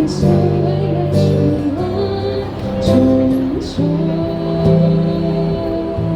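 Live band music with guitar: sustained chords that change every second or two, with a few sharp high percussive hits on top.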